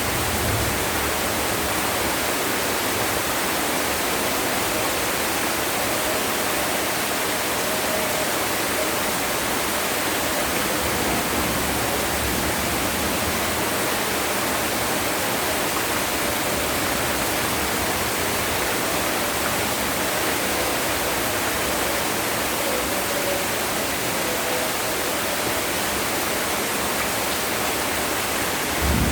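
Heavy rain pouring down steadily: a dense, even hiss of downpour.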